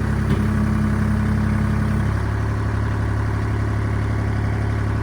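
Tractor engine idling steadily, with a higher hum in it that drops out about two seconds in.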